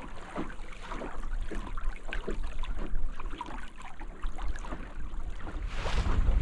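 Water lapping and splashing against the hull of a small canoe yawl in choppy water, with wind rumbling on the microphone. A stronger gust builds near the end.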